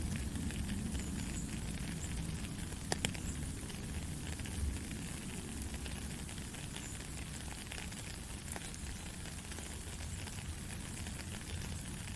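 Heavy rain falling steadily, a continuous hiss with a low rumble underneath and a few sharp drop hits scattered through it.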